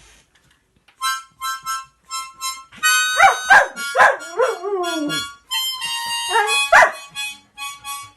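Harmonica played in short, repeated chords, joined from about three seconds in by a dog howling along in long rising and falling glides, which come back again near the end.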